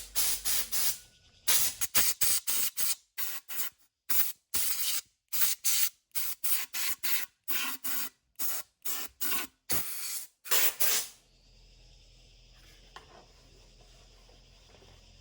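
A quick, uneven run of short hissing strokes, about two a second, that stops suddenly about eleven seconds in, leaving a faint steady hum.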